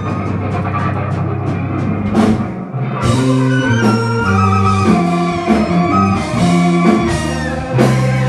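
Live rock-fusion band playing: drum kit, electric bass and guitar. A held melody note and quick drum strokes give way, after a cymbal hit and a short drop about three seconds in, to the full band with a stepping bass line and cymbal crashes.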